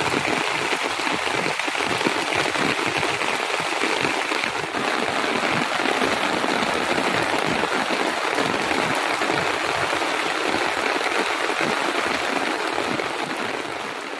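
Heavy rain falling steadily, a dense even hiss of drops that begins to fade near the end.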